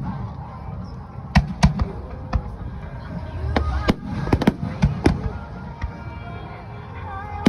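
Aerial fireworks shells bursting in an irregular series of sharp bangs, some in quick succession, over a low rumble, with music playing underneath.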